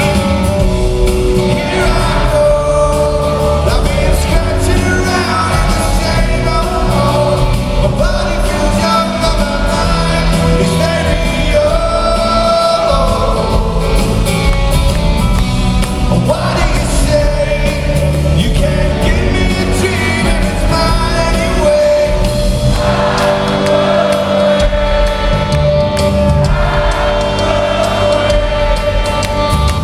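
Live rock band playing a song, with a male lead vocal singing over guitars, bass and drums, all carried by the hall's sound system.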